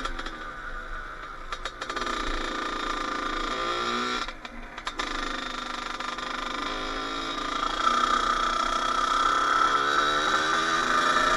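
Kawasaki KX80's two-stroke single-cylinder engine running as the dirt bike is ridden, its pitch rising and falling with the throttle. The engine note drops off briefly near the start and again about four seconds in, then climbs and holds high in the last few seconds.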